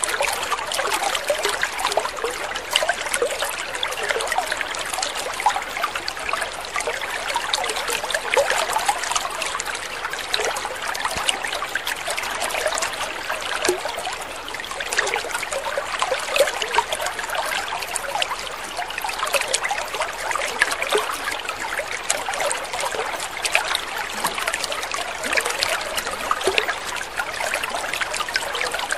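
Water trickling and splashing steadily, a dense patter of small droplets and ripples.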